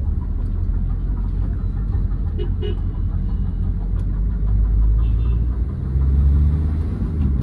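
2008 Hyundai Verna 1.6 turbo diesel on the move: steady low engine and road rumble, its engine note rising about five to six seconds in.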